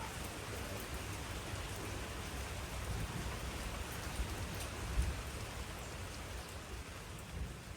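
Steady rain falling, with a few low rumbles around the middle, easing off toward the end.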